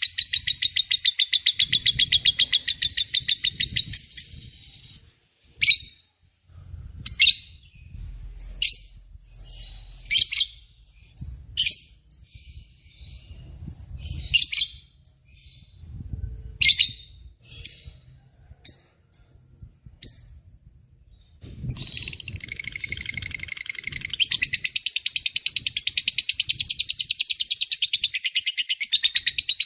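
Lovebird chattering in a long, very rapid trill (the 'ngekek panjang' call), breaking off after about four seconds into scattered single sharp chirps, then starting a second long rapid trill about three-quarters of the way through.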